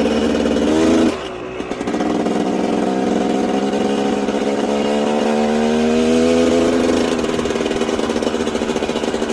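Two-stroke enduro dirt bike engine being warmed up off idle: the revs climb and drop sharply about a second in, then build slowly and ease back down.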